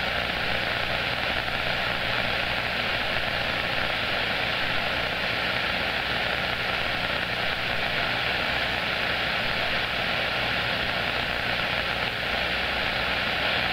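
CB radio receiver putting out steady band static, an even hiss through the speaker with no station coming through.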